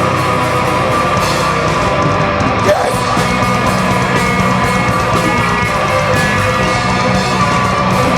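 Live heavy rock band playing loud, with distorted electric guitars over bass and drums between sung lines.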